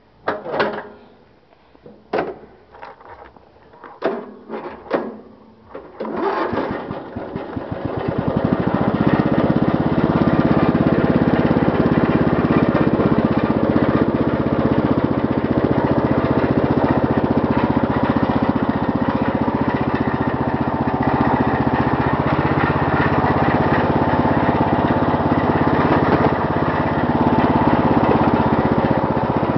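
A few separate knocks, then the 16.5 hp overhead-valve engine of a Lawn-Boy riding mower turns over and starts about six seconds in. Within a couple of seconds it settles into a steady run.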